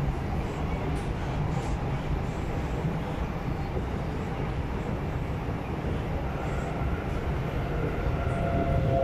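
SMRT C751B train running along elevated track, heard from inside the carriage: a steady rumble of wheels on rail. About six and a half seconds in, a steady whine rises over the rumble and grows louder toward the end.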